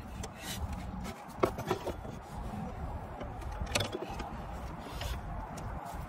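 A few sharp clicks and light scrapes of tools or parts being handled during work on the car, over a steady low rumble.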